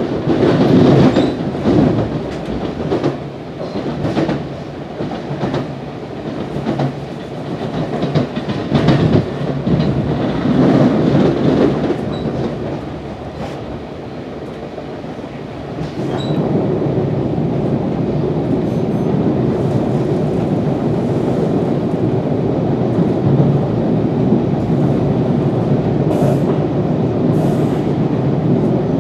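NJ Transit commuter train coach running at speed, heard from inside: wheels rumbling on the rails with irregular clicks over joints for the first dozen seconds. After a short quieter spell it settles into a steadier, louder rumble from about sixteen seconds in.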